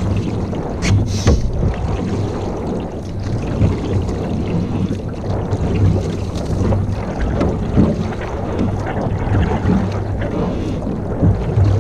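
Wind buffeting the microphone in a canoe out on a lake: a loud, steady low rumble with water sounds around the boat, and a sharp click about a second in.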